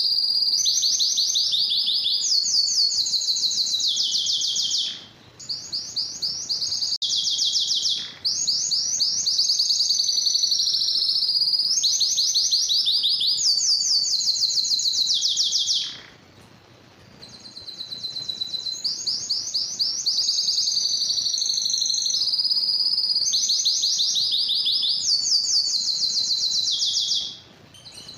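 Domestic canary singing: a long song of rapid, high trills, one trilled phrase giving way to the next every second or two. The song breaks off briefly about five and eight seconds in, pauses for about a second and a half around the middle, and breaks again near the end.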